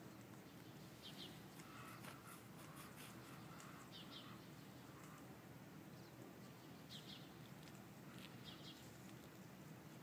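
Near silence, with a bird giving short high chirps every few seconds.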